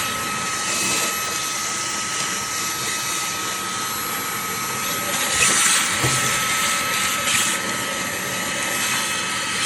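Fanttik Slim V8 Apex handheld car vacuum running steadily, a constant whirring hiss with a thin high whine, with a couple of brief louder hisses a little past the middle.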